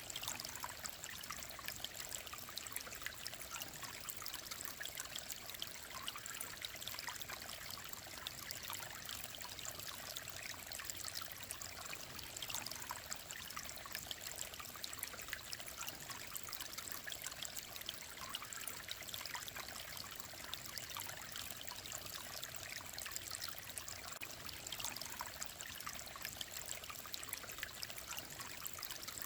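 Mountain stream running steadily, with a continuous trickling, babbling sound.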